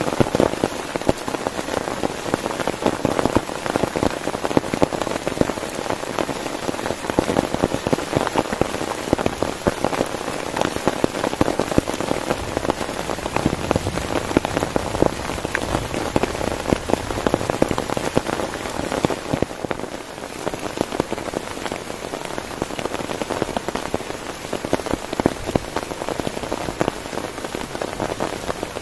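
Heavy rain drumming steadily on a tent, a dense patter of countless drops that eases slightly about two-thirds of the way through.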